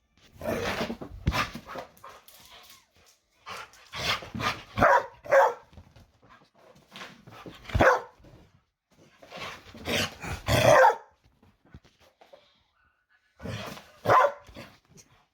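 Dog barking repeatedly, in clusters of short barks separated by brief pauses.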